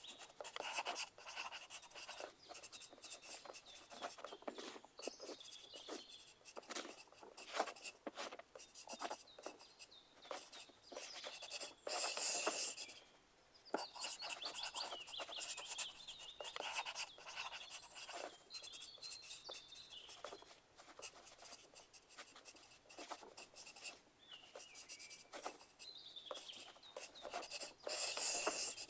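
Pencil writing on paper: many short scratching strokes in quick succession, with longer, louder scratching runs about twelve seconds in and again near the end.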